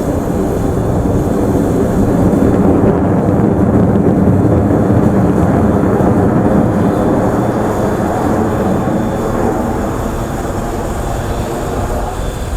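Sukhoi Su-30SM fighter jets' twin turbofan engines roaring as they fly an aerobatic display. The loud, low roar swells a couple of seconds in and slowly fades toward the end.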